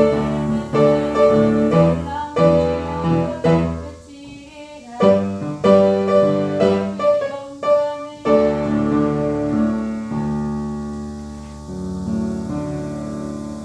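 Piano played in chords, each struck and then decaying. After about eight seconds the playing slows to held chords that ring on and fade.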